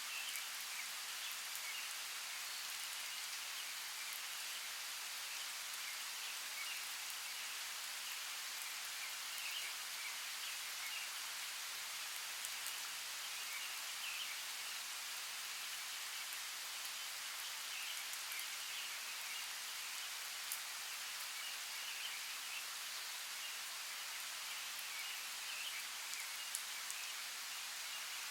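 Steady rainforest rain falling on foliage, an even hiss with scattered sharper drip ticks.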